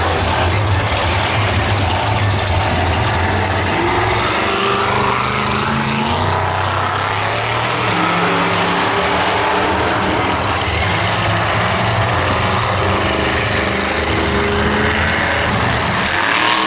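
Loud motor vehicle engines running, their pitch rising and falling as the revs change.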